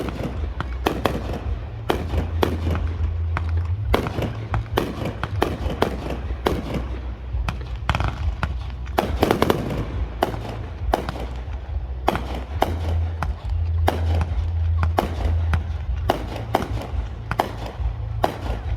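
Fireworks going off in a dense barrage: many sharp cracks and bangs a second, overlapping, over a steady low rumble.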